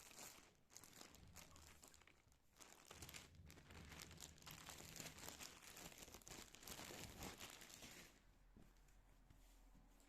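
Plastic packaging crinkling and rustling as it is handled, a dense run of small crackles that eases off about eight seconds in.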